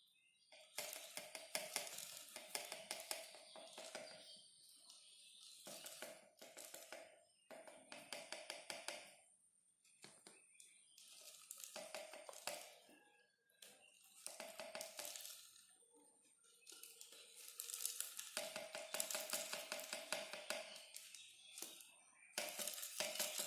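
Small battery-powered motor and fan of a homemade water-bottle vacuum cleaner running in bursts of a few seconds with short gaps between, giving a crackling, rattling whir.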